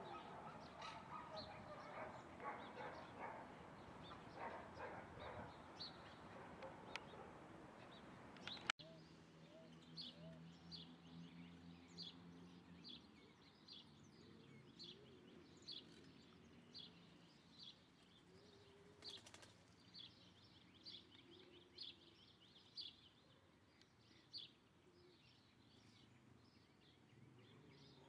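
Faint, busy background noise for the first few seconds. After an abrupt change, a small songbird gives short, high chirps, repeated about once or twice a second.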